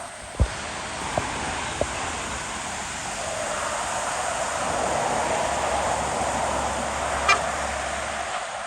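Road traffic passing: engine and tyre noise swells to a peak about halfway through and eases off. There are a few sharp knocks near the start and a brief high chirp near the end.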